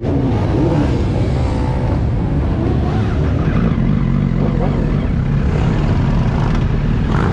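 Motorcycle engines running steadily, a loud, even sound weighted to the low end.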